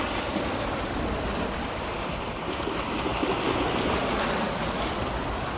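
Sea waves washing steadily against the shore, mixed with wind noise on the microphone.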